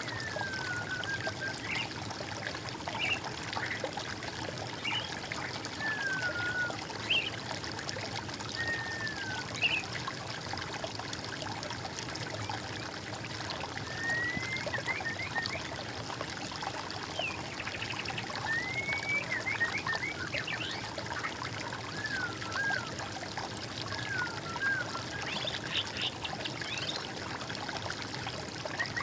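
Water trickling steadily, with songbirds calling over it in short whistled phrases and quick trills, some falling and some rising in pitch.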